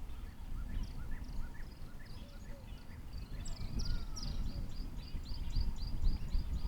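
Wild birds calling: scattered short chirps, then from about four seconds in a rapid, even series of high notes at about four a second. A low rumbling noise runs underneath.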